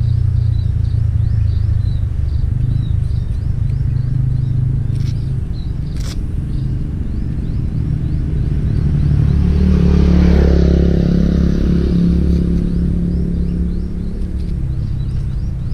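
Kawasaki ZX-25R's 250 cc inline-four with a DX Generation GPR aftermarket exhaust idling steadily. A passing vehicle swells and fades about ten seconds in.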